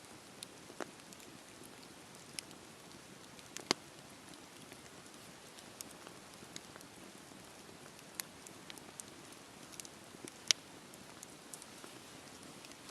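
Campfire burning: wood crackling with irregular sharp pops over a steady low hiss, with the two loudest pops a little under four seconds in and about ten and a half seconds in.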